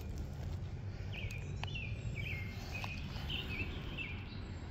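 A bird sings a run of short, quick chirping notes for about three seconds, over a steady low background rumble, with a few faint clicks.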